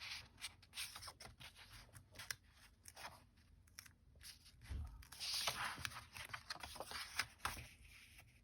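Paper and card being handled on a craft table: light rustling, a stretch of soft scraping about five seconds in, and many small clicks and taps.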